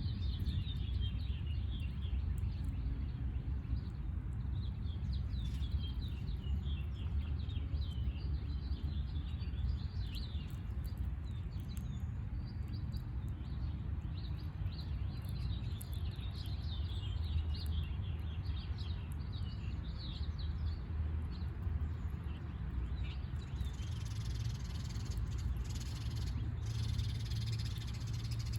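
Small birds chirping in short bursts of quick notes every few seconds, over a steady low rumble.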